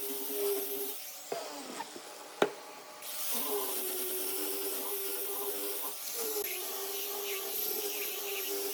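Electric woodworking power tool running with a steady hum and wood rubbing against it. The hum drops out about a second in, a sharp click comes about two and a half seconds in, and the hum returns a second later.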